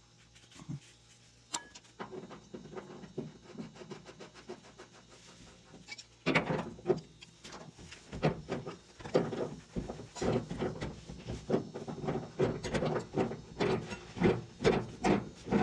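Wrench work on gas-line fittings: a few scattered metal clicks, then from about six seconds in a fast, irregular run of sharp clicks and knocks as the fittings are worked loose.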